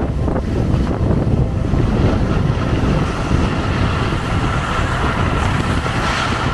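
Strong wind buffeting the microphone: a loud, steady rushing noise, heaviest in the low end.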